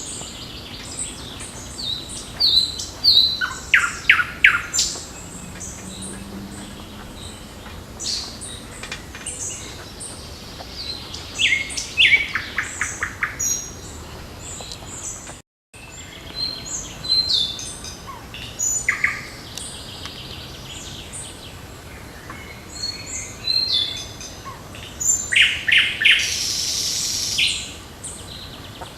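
Several songbirds singing and calling at once, an overlapping mix of high chirps, quick trills and short runs of falling notes. The sound cuts out for a moment about halfway through.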